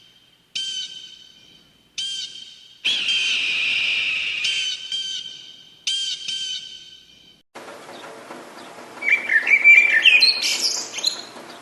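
Bird calls: a clear pitched call repeated about five times, each fading away, then a different bird chirping rapidly in short high notes.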